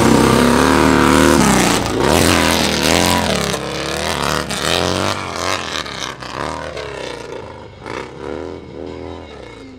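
Open-class hill-climb motorcycle engine running hard, its pitch swinging up and down again and again as the throttle is worked. It is loud at first and grows steadily fainter as the bike pulls away up the hill.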